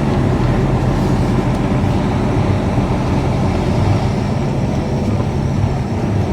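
Lorry's diesel engine running with a steady low drone, heard from inside the cab.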